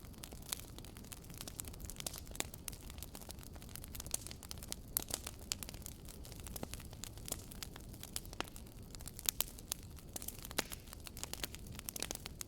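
Campfire crackling: sharp irregular pops and snaps of burning wood, several a second, over a low steady rumble of the flames.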